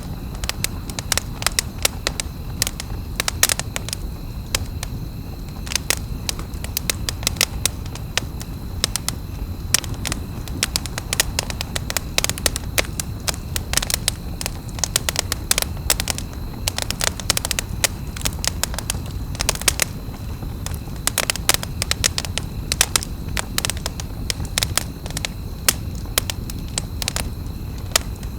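Campfire crackling: dense, irregular sharp pops and snaps of burning wood over a low steady rumble.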